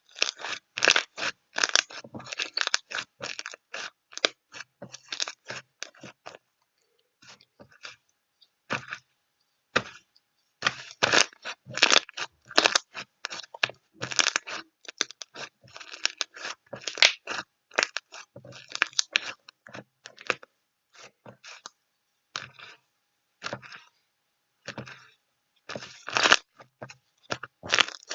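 Close-up crackling and crunching: dense clusters of sharp crackles, broken by short pauses.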